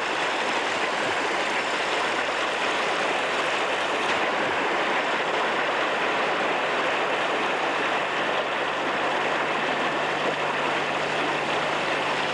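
An engine running steadily under a loud, even rushing noise, with a low steady hum.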